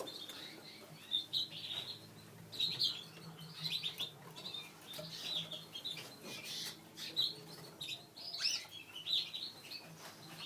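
Caged canaries chirping and calling in short, repeated bursts of high notes, with a few sharp clicks, over a steady low hum.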